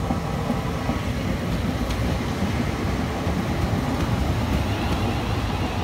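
Class 350 Desiro electric multiple unit running past along the platform: a steady, loud rumble of wheels on rail and running gear.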